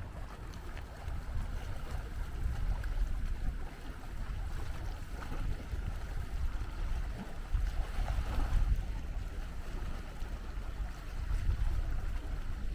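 Wind buffeting the microphone in uneven gusts, heard as a fluctuating low rumble over faint outdoor ambience.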